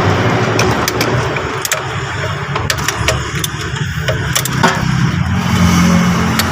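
A motor vehicle engine running steadily in the background, with irregular sharp metallic clicks and clinks from hand tools as the starter motor's mounting bolts are worked loose.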